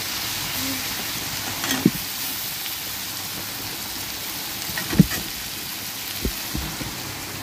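Taro stolons, jackfruit seeds and onion sizzling steadily in oil in a metal kadai while a spatula stirs them, with a few knocks and scrapes of the spatula against the pan, the loudest about five seconds in.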